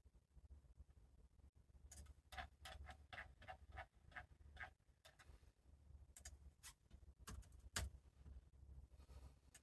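Faint keyboard typing: a quick run of about ten key clicks at roughly four a second, then a few scattered keystrokes, one a little louder near the end.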